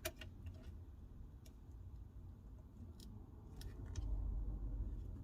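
A few faint, scattered clicks and taps of small parts being handled as the back camera module and its flex cable are fitted into an iPhone 12 housing, over a low hum that grows louder about four seconds in.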